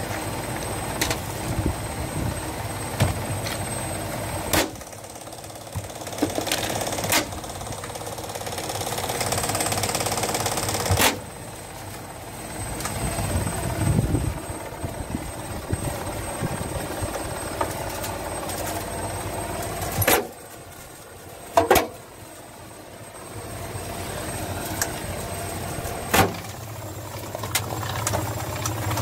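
Washing machine running hard, its motor and drum whirring steadily, with several sharp loud bangs spread through the run.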